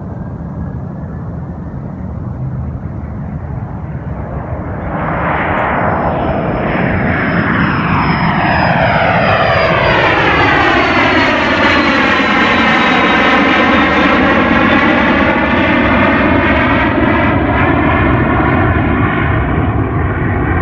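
Jet aircraft engines running loud, growing louder about five seconds in, with a high whine that slowly falls in pitch.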